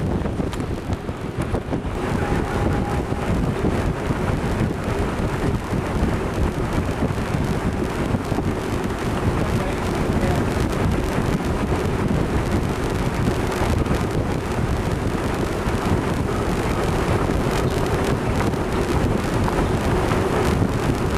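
Steady wind buffeting the microphone on an open ship's deck, with a faint steady hum underneath.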